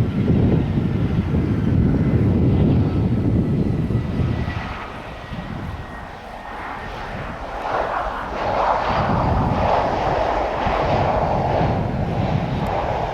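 Jet airliner on final approach passing overhead: a faint engine whine over a low rumble at first, then the jet noise swells loud about halfway through and stays strong.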